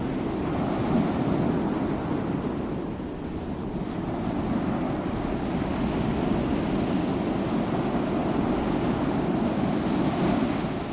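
Sea waves: a continuous rush of surf that eases a little a few seconds in and then builds again.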